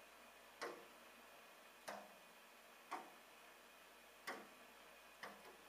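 Bird tapping its beak against window glass: sharp single taps about once a second, five in all, the last quickly followed by a second, fainter tap.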